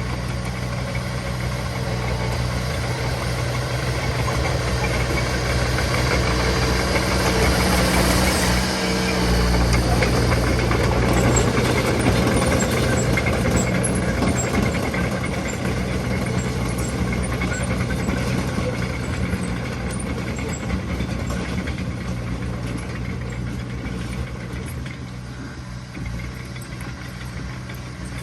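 Diesel engine of heavy earthmoving machinery running steadily. It grows louder toward the middle and eases off near the end.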